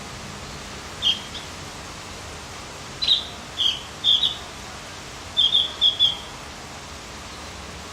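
Songbird giving short, sharp chirps in scattered groups: single notes, then pairs, then a quick run of four. A steady hiss lies under the calls.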